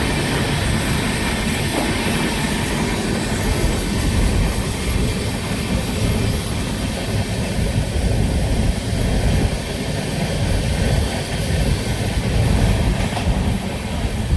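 Train running along the track: a steady, loud rumble of wheels and carriages that rises and falls slightly in level.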